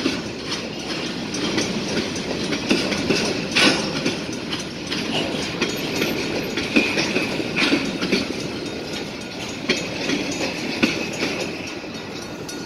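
Freight train of covered hopper cars rolling past, wheels clacking over the rail joints, with scattered sharp clanks. The last car goes by near the end.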